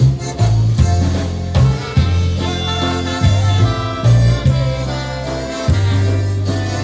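Polka band playing a waltz live, with long held bass notes changing about once a second under the melody.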